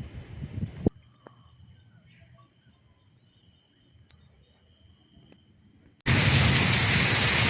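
Night insects trilling with one steady high note. About six seconds in, this cuts abruptly to heavy rain pouring, loud and steady.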